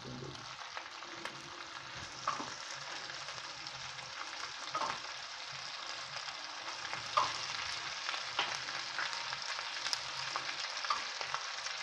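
Chicken pieces frying in hot ghee in a steel kadhai: a steady sizzling hiss, with a few light clicks every couple of seconds.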